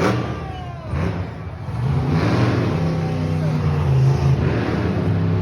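Monster truck engine running and revving, getting louder and steadier about two seconds in.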